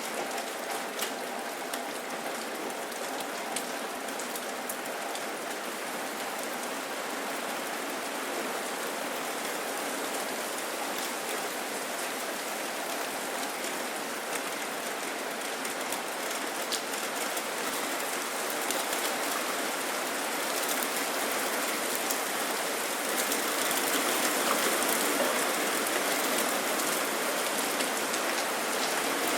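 Steady rain falling, with scattered drops ticking close by; it grows gradually louder through the second half.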